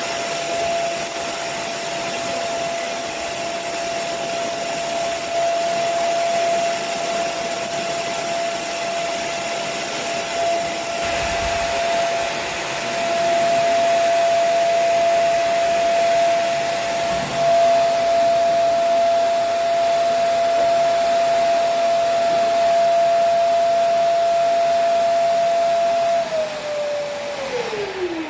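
Vacuum carpet-washer motor running with a steady whine and rushing air, growing louder and hissier about eleven seconds in. Near the end it is switched off and the whine falls away as the motor spins down.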